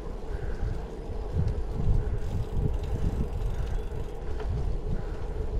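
Wind buffeting the microphone of a camera on a moving bicycle, in uneven gusts, over a steady hum from the bike rolling along the road.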